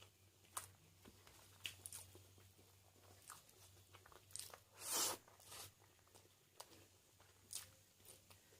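Close-up eating sounds: a person chewing and biting food, with scattered small crunches and mouth clicks and one louder crunch about five seconds in.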